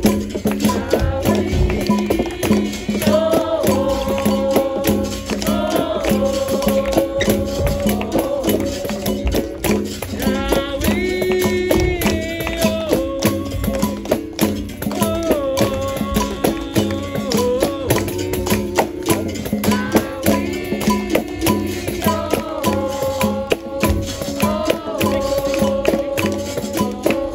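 Capoeira roda music: a steady-pitched berimbau with the rattle of a shaker and quick percussion hits, under sung melodic lines with long held notes.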